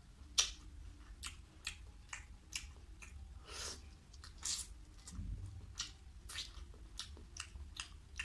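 Close-up wet chewing and lip-smacking from eating rice and curry: a steady run of sharp mouth clicks about two a second, with a few broader, wetter smacks in the middle.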